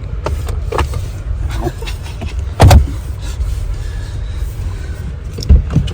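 A few knocks and one loud thump about two and a half seconds in, over a steady low rumble, typical of car doors being opened and shut on a display car.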